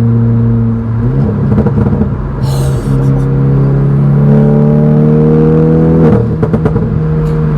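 Hyundai i30N's turbocharged four-cylinder engine through a turbo-back sport-cat exhaust with the valves open, under acceleration. The deep exhaust note climbs steadily in pitch, drops sharply about six seconds in as the dual-clutch gearbox shifts up, and is followed by a burst of overrun thuds and crackles.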